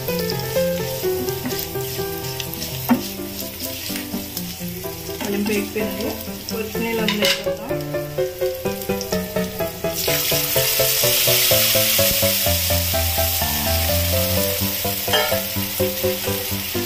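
Garlic, dried red chillies and curry leaves sizzling in hot oil in a nonstick pan, stirred with a spatula. About ten seconds in the sizzle turns suddenly louder and hissier as chicken broth goes into the hot tempering.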